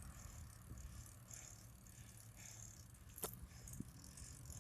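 Faint rattle and low rumble of a bicycle being ridden, with one sharp click about three seconds in.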